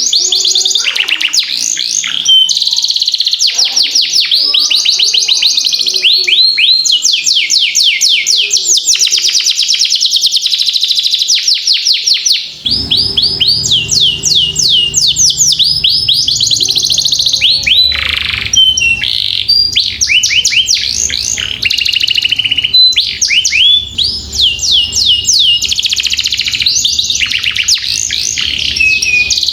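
Domestic canary singing a long rolling song: runs of rapid, repeated downward-sweeping notes, one trill after another with barely a break. About halfway through, a low steady hum joins underneath.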